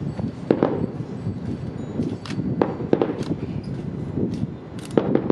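Fireworks going off: about half a dozen sharp bangs at irregular intervals with fainter crackles between them, over a steady low rumble.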